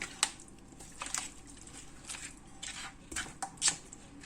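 Light, irregular clicks and taps of kitchen utensils and a cooking pot being handled.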